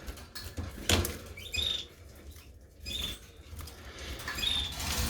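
Canaries giving short high chirps, three in all, among light clicks, knocks and rustles, the loudest knock about a second in.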